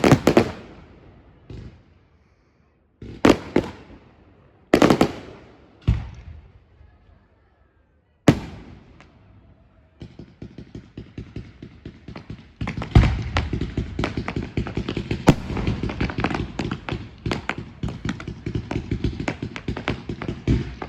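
Fireworks display: a series of single loud bangs a second or two apart, each trailing off in an echo, then a rapid crackling run of many small bangs that grows into a continuous barrage for the second half.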